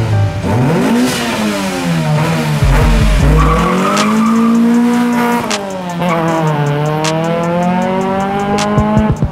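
A car engine revving under acceleration, its pitch climbing and dropping several times.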